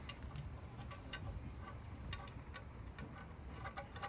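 Scattered small clicks and ticks, about eight at irregular spacing, as screws are put back into the quad's exhaust by hand.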